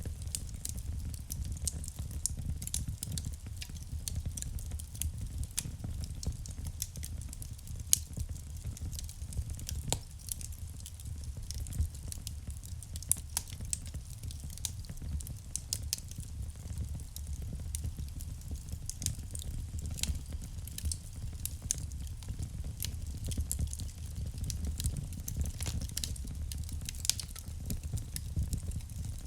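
Wood fire burning in a fireplace: a steady low rumble of flames with frequent small crackles and a few louder pops of burning wood.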